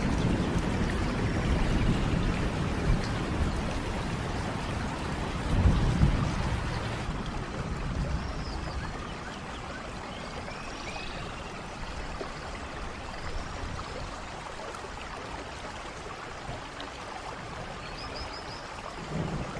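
Steady rain falling, with low thunder rumbling through the first several seconds, loudest about six seconds in. About seven seconds in, the recording cuts to a quieter stretch of steady rain, with a few short high chirps over it.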